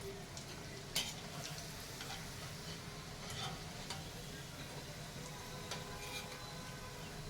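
Scattered light clicks and taps of hands shaping samosa pastry and setting the pieces down, the sharpest about a second in, over a steady low hum.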